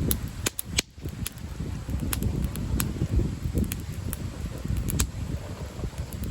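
Wood campfire crackling, with irregular sharp pops and snaps over a low rumbling noise that drops away briefly about a second in.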